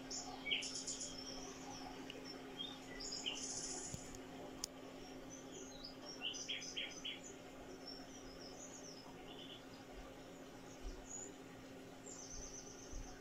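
Small birds chirping and trilling in short scattered calls, with a steady low hum underneath.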